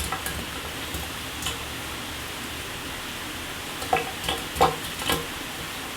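Shower running: a steady hiss of falling water spray, with a few louder splashes near the end.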